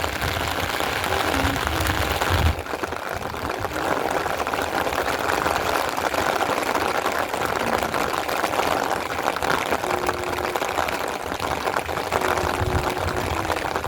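Rain falling steadily, a dense patter of drops. A low rumble under it stops abruptly about two and a half seconds in.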